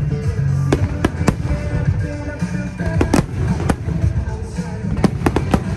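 Aerial fireworks bursting in a string of sharp bangs, irregularly spaced and several coming in quick succession near the end, over loud music with a heavy low end.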